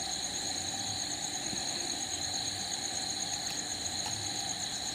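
Steady chorus of night insects such as crickets, with several high trills layered together; the highest one pulses rapidly.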